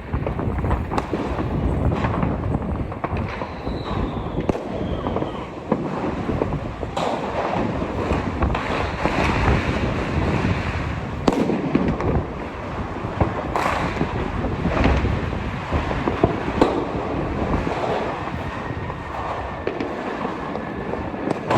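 Fireworks and firecrackers going off in quick succession: many sharp bangs at irregular intervals over a continuous crackle of more distant bursts, with a brief whistle falling in pitch about four seconds in.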